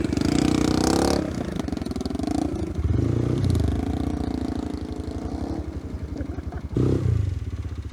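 125 cc single-cylinder motorcycle engine running at idle with a pulsing exhaust beat, rising briefly with throttle blips near the start, about three seconds in and again near the end.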